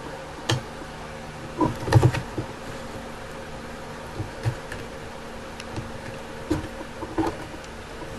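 Scattered light clicks and taps of small parts being handled while a bulb is fitted into a model building, loudest in a short cluster about two seconds in, over a steady low hum.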